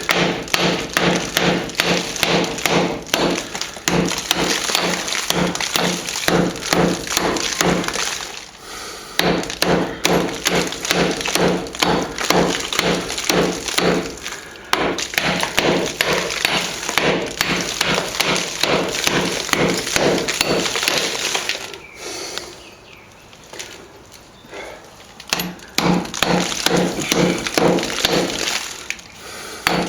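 Chisel being driven into rock-hard old cement render to open up a wall crack: a fast, steady run of sharp knocks that stops briefly about eight and fourteen seconds in, goes quiet for a few seconds past the twenty-second mark, then starts again.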